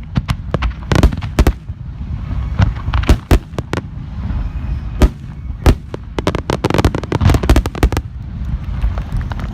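Fireworks display: aerial shells bursting with sharp bangs over a continuous low rumble, then a dense run of rapid crackling bursts that stops abruptly near the end.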